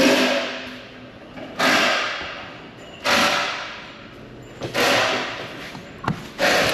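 Hammer blows struck at a steady pace, five in all about a second and a half apart, each a sharp hit that rings out and fades over about a second.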